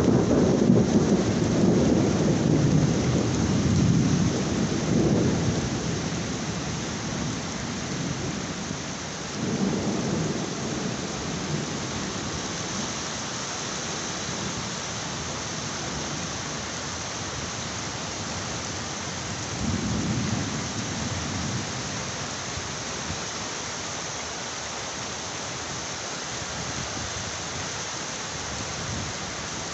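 Heavy rain falling steadily, with rolling thunder: a loud rumble at the start that dies away over several seconds, then further rumbles about ten seconds in and about twenty seconds in.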